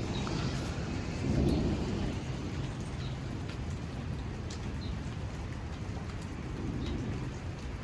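Strong storm wind gusting against the microphone as a low rumble that swells about a second and a half in, with scattered ticks of rain striking nearby surfaces.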